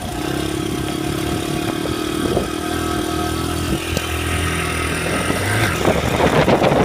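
Honda CRF100F's 100cc four-stroke single-cylinder engine running steadily at low revs. It gets louder and rougher about five and a half seconds in.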